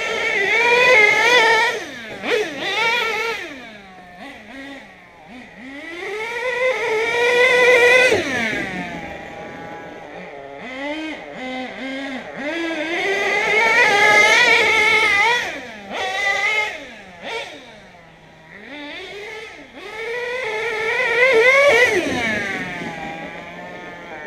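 Nitro RC monster truck's small two-stroke glow engine revving hard in four runs, its pitch rising and falling with the throttle. Twice the pitch drops steeply at the end of a run.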